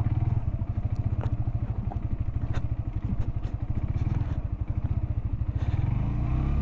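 Motorcycle engine at low revs in first gear, a low, even throb as the bike descends a steep loose-gravel track. A few sharp clicks stand out over it.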